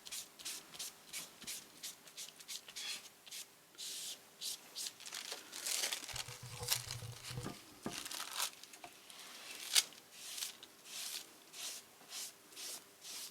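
Paper rustling and crinkling as collage paper is pressed and smoothed down onto wet matte medium, in short repeated rubbing strokes.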